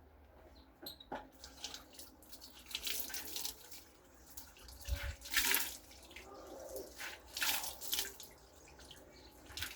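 Water from a tap splashing into a sink in uneven gushes, with a soft knock about halfway through.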